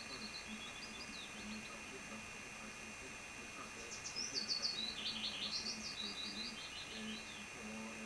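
A small bird singing quick runs of short, high chirps: a brief phrase at the start, then a longer, louder run in the middle.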